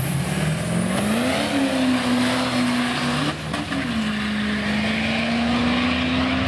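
Drag-race car engine under hard acceleration: the pitch climbs about a second in and holds, then breaks and drops briefly a little past three seconds in, like a gear change, before holding steady again.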